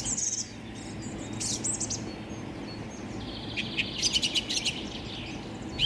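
Small birds chirping: short, high chirps in several quick clusters, over a steady low hum.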